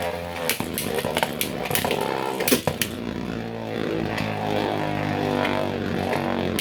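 Two 3D-printed Beyblade tops spinning and clashing in a stadium: a steady whirring hum with sharp clicks of collisions, frequent in the first half and again near the end.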